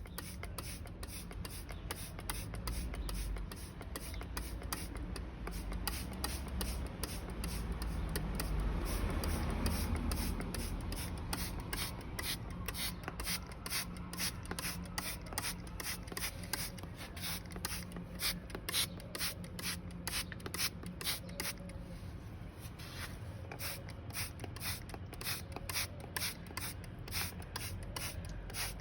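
Rapid, repeated scraping strokes by hand, a few a second, over a steady low background hum.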